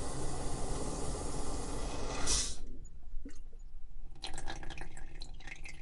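Toilet tank water rushing steadily, then cutting off suddenly about two and a half seconds in after a brief louder swish. Scattered drips and trickles of water inside the tank follow.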